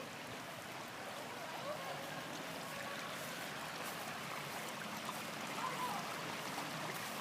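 Shallow stream water running steadily over a rocky bed.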